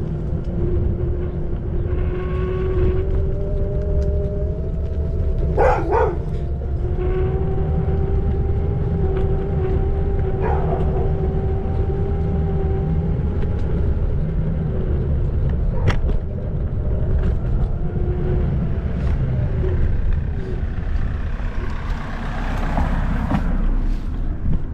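Xiaomi Electric Scooter 4 Pro being ridden: a steady whine from its electric motor over a heavy low rumble of the ride, with a few sharp knocks, about 6 and 16 seconds in.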